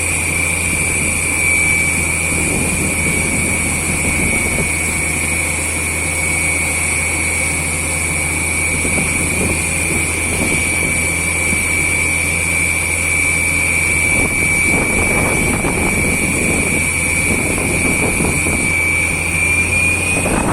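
Borewell drilling rig running steadily under load: a constant low engine drone with a steady high whine and hiss over it.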